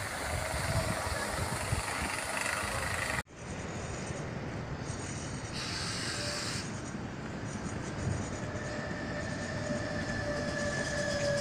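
Wind and surf on a shingle beach for about three seconds. Then, after a cut, a regional passenger train rolls through a station, with a short hiss about six seconds in. A steady high wheel squeal sets in during the last few seconds.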